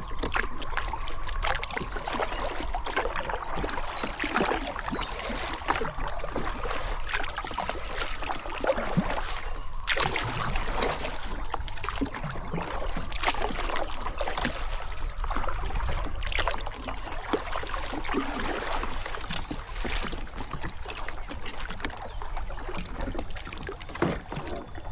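Kayak paddling on a river: repeated irregular paddle splashes, with water dripping and trickling around the boat.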